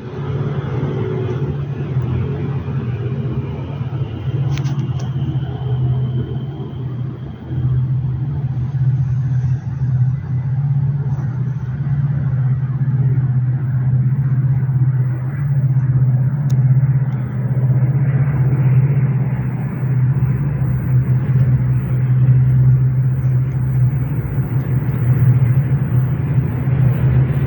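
Seohae Geumbit passenger train passing through a station, a loud, steady low rumble from the train that holds for the whole stretch.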